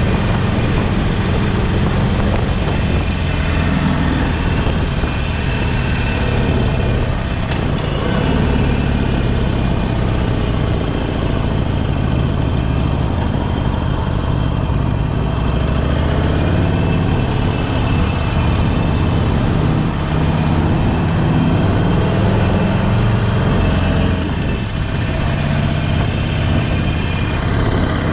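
Harley-Davidson Sportster Forty-Eight's air-cooled V-twin running through a Jekill & Hyde valve exhaust while riding, its engine note rising and falling as the revs change.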